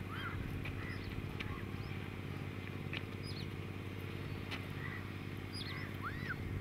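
Wild birds calling outdoors, a scatter of short chirps and arching calls, over a steady low hum.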